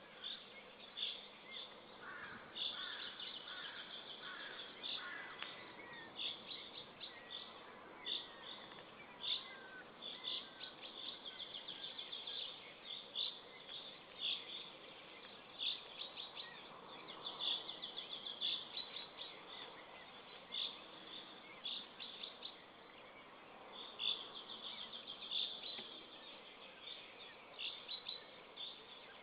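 Birds chirping: short high-pitched calls come in quick runs throughout, with a few lower, warbling calls in the first several seconds.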